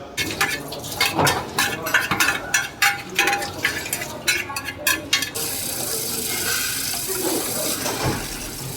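A lunch box and utensils clinking and clattering for about five seconds as they are handled, then a tap is turned on and water runs steadily into a sink to wash it.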